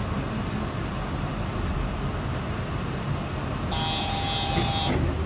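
Running noise of a Yurikamome 7500-series rubber-tyred automated guideway train heard inside the car as it comes into a station: a steady rumble with the cabin ventilation running. Near the end a steady electronic tone sounds for about a second, followed by a click.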